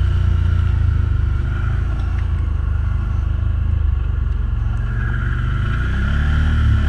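ATV engine running steadily, its pitch rising and falling briefly near the end.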